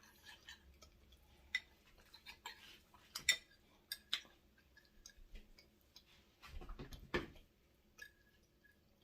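Faint, scattered clicks and taps of a fork against a plate, with one brief duller bump about two-thirds through.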